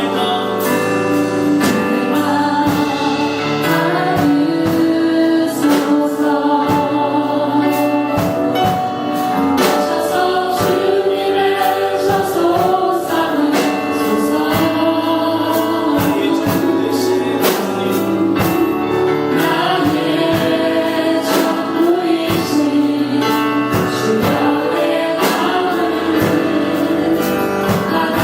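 A choir singing a Christian worship song with instrumental accompaniment and a steady percussive beat.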